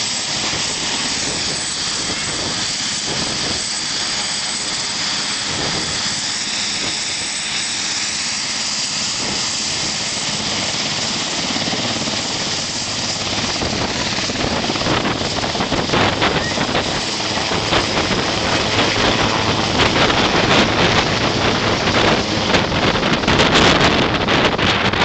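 Helicopter running overhead, a steady rotor and turbine noise. About halfway through it grows louder, with a rapid chopping beat.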